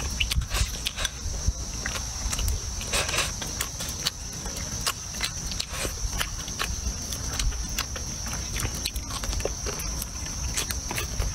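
Close-up eating sounds: wet mouth smacks, sucking and chewing as braised fish and scallion are bitten and eaten, many short clicks in quick, irregular succession. A steady high insect drone sits behind throughout.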